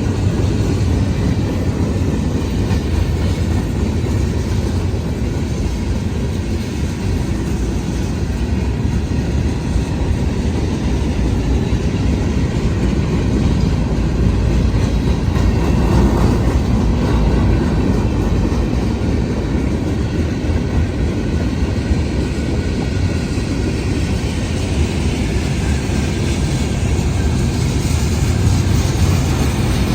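Freight train rolling past, a steady rumble of its wheels on the rails.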